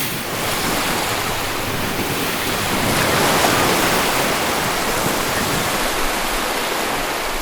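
Ocean surf: a steady rushing wash of waves, swelling a little about halfway through.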